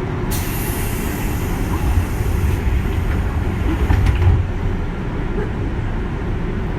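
A 201 series electric train running between stations, with a steady low rumble of wheels on rail. A hiss runs for about two seconds near the start, and a few sharp knocks come about four seconds in.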